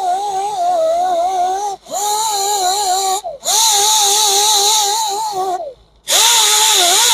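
Power grinder spinning a red surface-conditioning disc against an alloy wheel's rim to grind out curb rash. Its whine wobbles in pitch as it is pressed into the metal. It runs in bursts, stopping briefly three times, and the pitch drops off each time it is let go.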